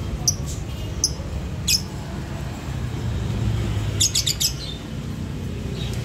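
Caged small birds chirping: a few short, sharp chirps in the first two seconds, then a quick run of chirps about four seconds in, over a steady low background rumble.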